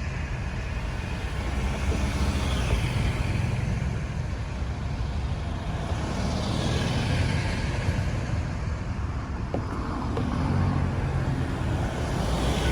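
Busy road traffic: a steady low engine rumble with several vehicles passing one after another, each a swell of tyre and engine noise that rises and fades.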